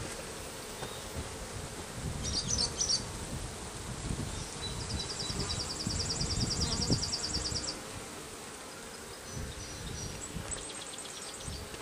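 Honeybees humming steadily around an opened hive during a frame inspection, swelling somewhat in the middle, with a few light knocks from handling the frames.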